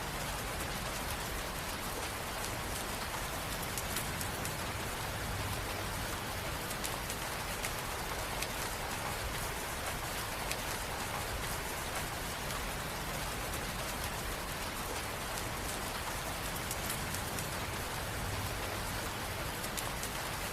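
Steady rain falling, an even hiss of rainfall with many small drop ticks and no change in strength.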